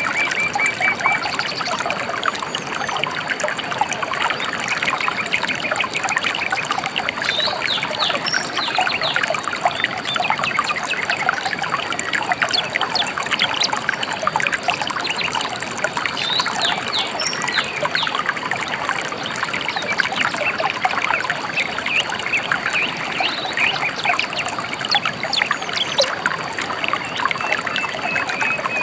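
Gently flowing river trickling and babbling steadily, with a few short bird calls and chirps now and then over it.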